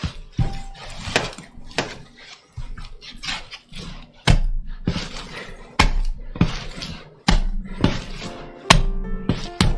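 Bread dough being worked by hand on a worktop: repeated knocks, turning into heavier thuds about every one and a half seconds from about four seconds in, over background music.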